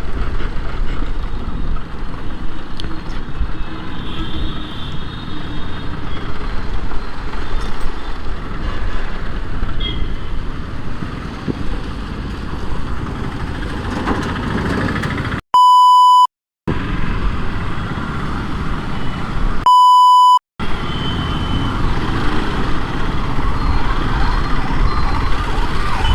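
Steady road-traffic and wind noise, broken twice by a flat electronic bleep tone about a second long. Near the end a siren starts up, its pitch swinging up and down rapidly and repeatedly.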